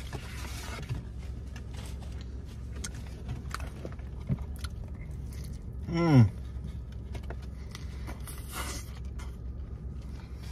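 Someone chewing a burger: small wet mouth clicks scattered over the steady low hum of a car's cabin, with one short, loud vocal sound that falls in pitch about six seconds in.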